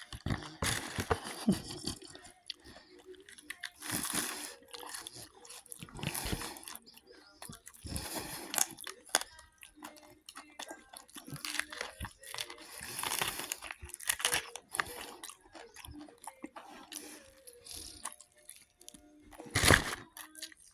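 Fried chicken being bitten and chewed close to the microphone: crisp crunches of the fried coating at irregular intervals, with a louder crunch near the end.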